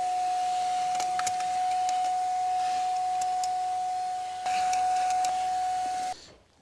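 Vacuum cleaner running steadily as it cleans out a car's air filter housing, a high whine over rushing air. It has a few clicks, grows louder about four and a half seconds in, and switches off suddenly about six seconds in.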